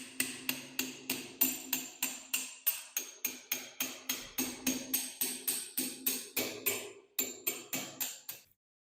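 A hammer striking metal in a fast, even rhythm of about three blows a second, each blow ringing, with a short pause near the seven-second mark before the strikes stop shortly before the end.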